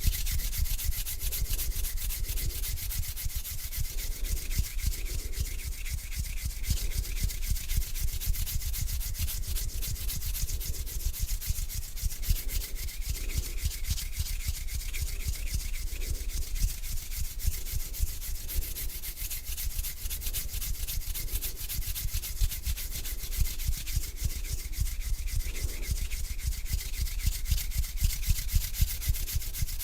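Palms rubbing slowly together close to the microphone: a continuous dry, crackly swishing in slow, even strokes.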